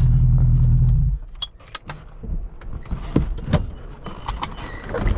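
Straight-piped BMW M60 V8 idling, then switched off about a second in. Keys jangle after it, with scattered light clicks and knocks.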